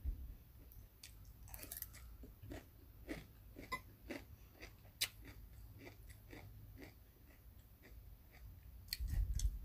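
A person chewing food close to the microphone, with many small irregular mouth clicks. A louder low rumble comes near the end.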